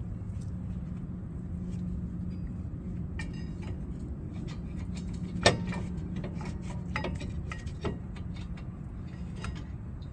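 Metal brake parts being handled: scattered light clinks and taps, one sharper knock about halfway through, over a steady low hum.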